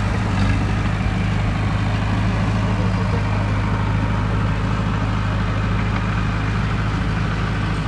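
Diesel engine of heavy earthmoving machinery, such as a bulldozer or dump truck, running steadily at an even low pitch.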